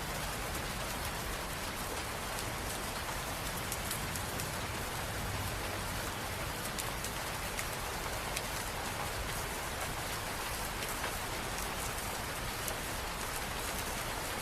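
Steady rain falling, a constant hiss with many individual drops pattering on surfaces.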